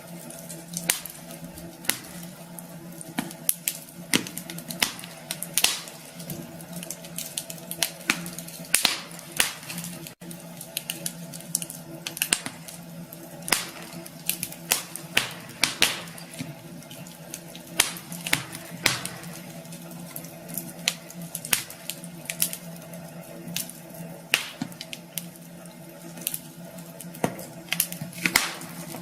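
Wood fire burning in a fireplace, crackling with frequent irregular sharp pops over a faint steady low hum.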